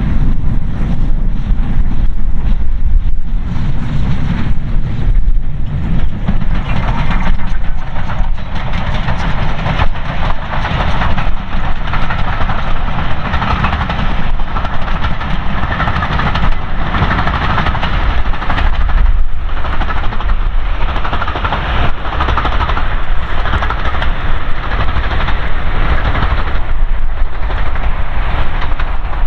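A steam-hauled train passing, loud and continuous: the locomotive working and the coaches rolling along the track.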